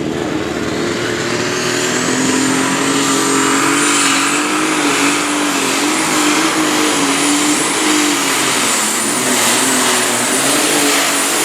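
A turbocharged diesel pulling tractor's engine runs at high power. A high whine rises over the first two seconds and then holds steady above the engine sound.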